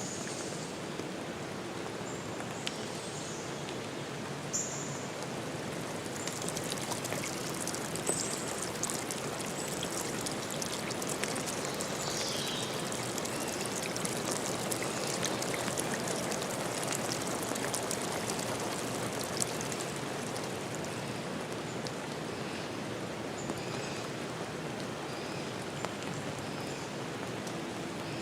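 Forest stream flowing steadily, a continuous rush and trickle of water over rocks. A few short high chirps sound over it in the first several seconds, and one falling high call comes about halfway through.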